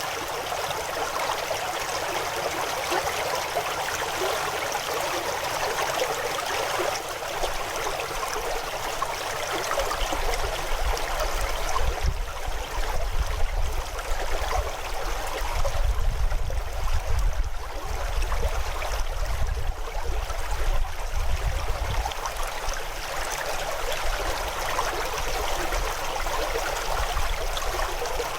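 River water running and splashing steadily over rocks. A low rumble comes in about ten seconds in and fades out about twelve seconds later.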